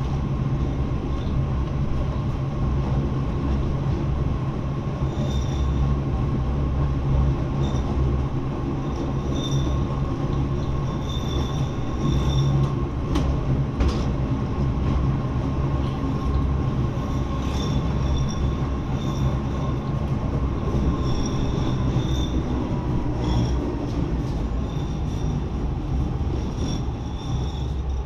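Lausanne–Ouchy rack railway train running downhill: a steady low rumble with a held whine and repeated short, high wheel squeals. The whine falls in pitch near the end.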